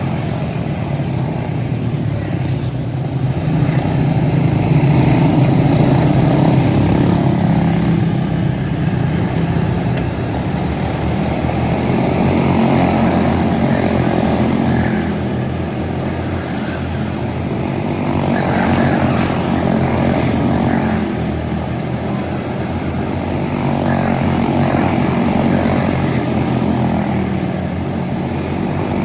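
Small four-stroke racing go-kart engines running at speed in a heat race, the engine buzz swelling and fading every several seconds as the karts lap the oval.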